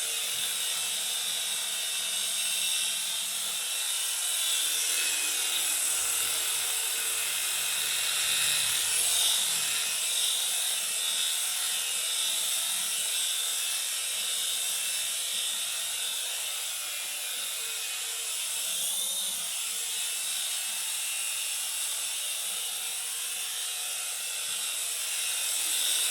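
Small electric motors and spinning rotor blades of a toy 2-channel RC helicopter whining steadily as it hovers, the pitch wavering slightly now and then as the throttle changes.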